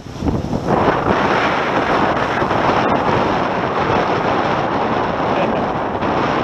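Wind buffeting the microphone, with water rushing past the hulls of a Tornado catamaran sailing upwind; a steady, loud roar of noise with a brief lull right at the start.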